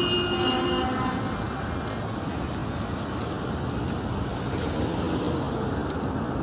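Steady road traffic noise of passing vehicles; a held high-pitched tone stops about a second in.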